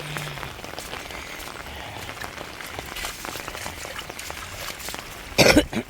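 Steady rain falling and dripping, with many separate drops landing close by. About five and a half seconds in comes one brief, loud noise.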